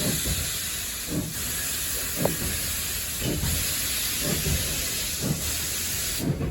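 Steam locomotive heard from the cab, pulling away slowly: a steady loud steam hiss with a low beat about once a second.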